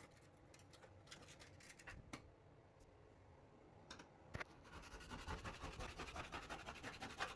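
Faint scattered clicks, then about three seconds of fast, even scratching strokes, like something being scraped or scrubbed by hand.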